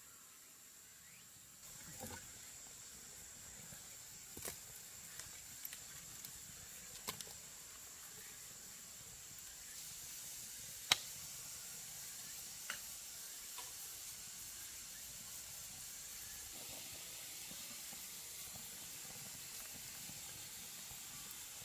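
A faint steady hiss that grows a little louder about two seconds in and again about ten seconds in, with scattered light clicks and taps, the sharpest about eleven seconds in.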